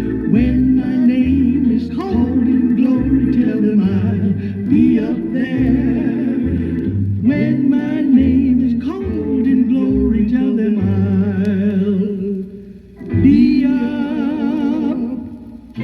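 Gospel song: a singing voice with a wide vibrato holding and bending long notes over steady low bass notes. It dips briefly about three-quarters of the way through and again at the end.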